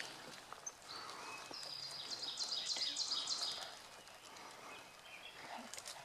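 A songbird singing a series of high, quickly repeated notes about a second and a half in, over a quiet woodland hiss.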